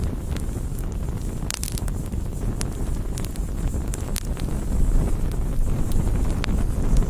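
Bonfire crackling: scattered sharp pops and snaps over a steady low rumble.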